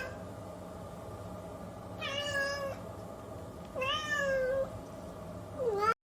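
A cat meowing three times, each meow sliding down in pitch, over a faint steady hum. The third meow is cut off abruptly.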